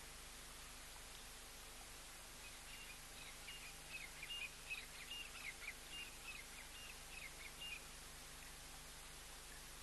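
A bird singing faintly: a run of about a dozen short, high chirping notes lasting about five seconds, starting a couple of seconds in, over steady background hiss.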